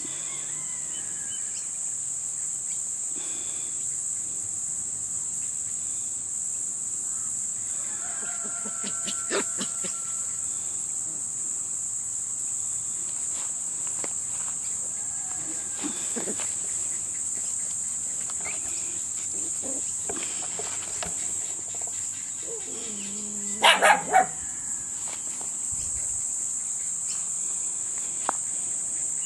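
Tenterfield terrier puppies giving a quick cluster of sharp barks about 24 seconds in, over a steady high-pitched hiss.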